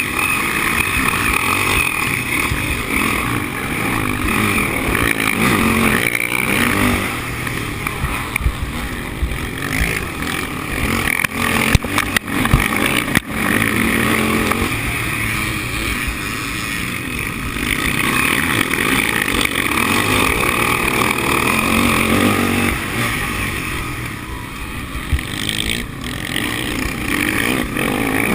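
Sidecar motocross outfits' engines running hard around the track, revs rising and falling as several machines pass. A few sharp clicks come about halfway through.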